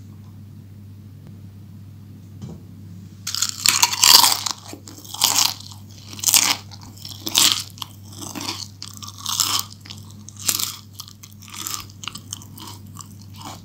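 Close-up chewing of crispy fried potatoes in cheese sauce. Crunchy bites start about three seconds in and come roughly once a second, growing softer toward the end. A low steady hum sits underneath.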